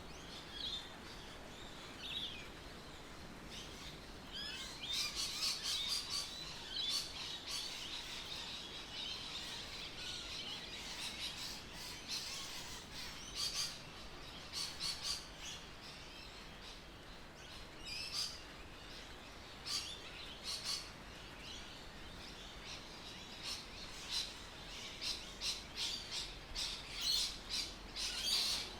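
Birds chirping and calling: clusters of short, high, rapid chirps that come and go, over a faint steady background.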